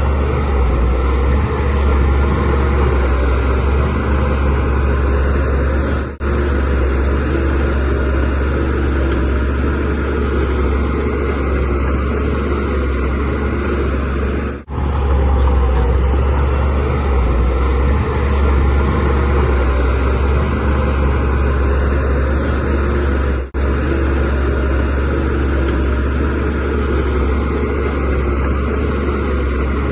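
Shantui DH17C3Pro bulldozer's diesel engine running steadily under working load, with a deep low drone. The sound drops out briefly three times, about every nine seconds.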